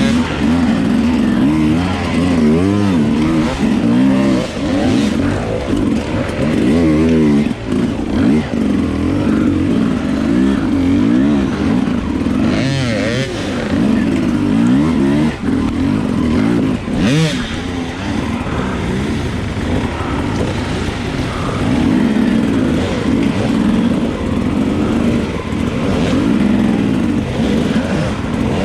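Dirt bike engine revving up and down continually under load, the revs rising and falling with the throttle and gear changes, with occasional brief scrapes or knocks.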